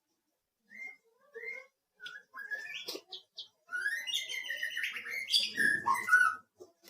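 Bird chirping and tweeting: a few short separate chirps, then a denser, louder run of calls over the last few seconds.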